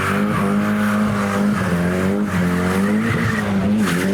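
Nissan S14 doing a burnout: the engine is held at high revs, wavering slightly up and down, while the rear tyres spin and squeal.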